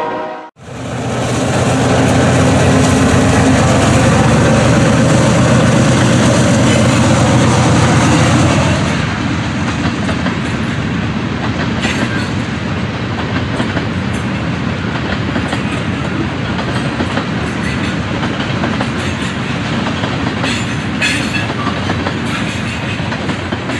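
Ferromex diesel freight train running by. The locomotives' engines and the rolling train are loud for the first eight seconds or so. Then the cars roll on more quietly, with a few sharp clicks from the wheels.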